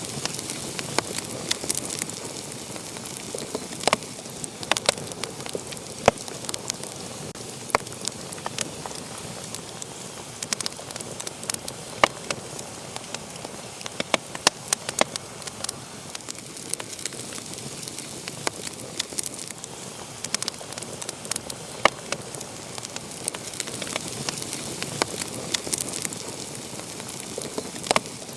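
Wood fire crackling: a steady hiss of burning with many irregular sharp pops and snaps.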